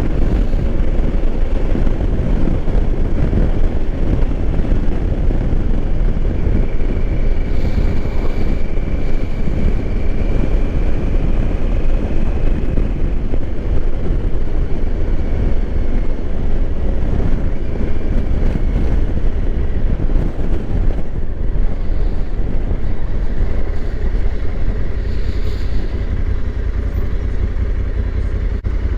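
Steady wind rush on the microphone over the running engine of a 2020 Honda Africa Twin motorcycle, its parallel twin holding a steady pace while riding.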